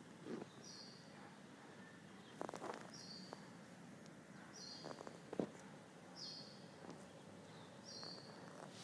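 A bird repeating a short, high, slightly falling call five times, about every second and a half, over faint background noise, with a few soft knocks in between.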